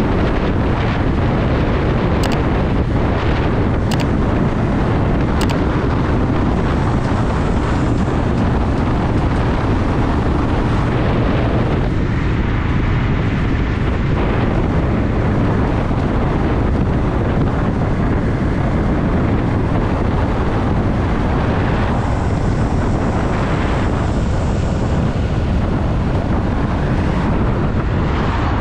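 Honda Shadow VT750 V-twin engine running steadily while the motorcycle is ridden, with wind rushing over the microphone. Three faint high clicks come about two, four and five and a half seconds in.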